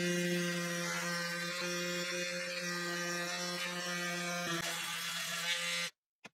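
Small electric power-tool motor running at one steady pitch, then cutting off abruptly near the end.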